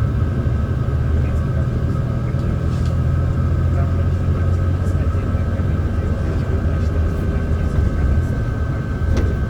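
Mercedes-Benz O307 city bus running under way, heard inside the passenger cabin: a steady low engine drone with a steady higher whine above it.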